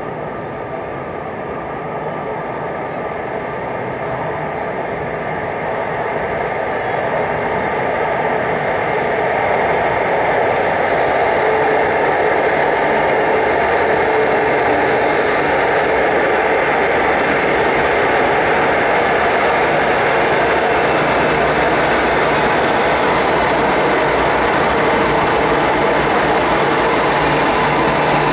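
Renfe Cercanías Civia electric commuter train approaching through the tunnel into an underground station. It grows louder over about ten seconds, then runs steadily and loudly past the platform.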